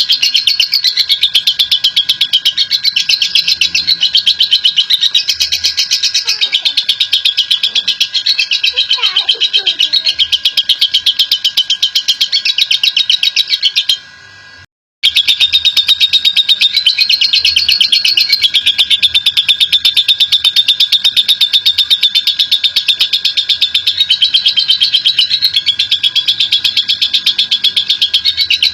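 Lovebird giving its long 'ngekek' call: a continuous, very rapid, high-pitched chattering trill. It breaks off for about a second about halfway through, then carries on.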